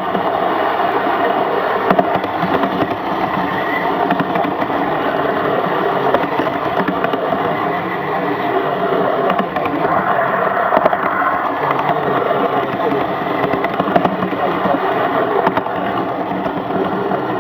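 16mm-scale live steam model locomotive running along garden railway track: a steady, unbroken mechanical running noise.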